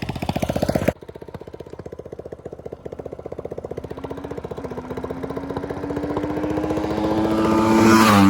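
A small motorbike engine running. About a second in the sound cuts abruptly to a quieter engine, which then grows steadily louder and higher in pitch as the bike closes in, peaking and dropping in pitch right at the end as it passes.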